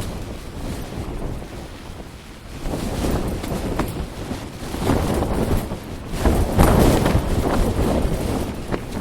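Strong wind gusting against the microphone, swelling and easing, with the strongest gust about two-thirds of the way through.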